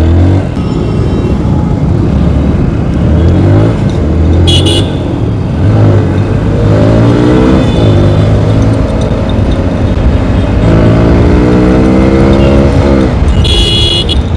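TVS Apache RTR 160 4V's single-cylinder engine pulling through the gears as the motorcycle accelerates, its pitch rising in several runs and dropping at each shift. Two short high-pitched beeps sound, one about four seconds in and one near the end.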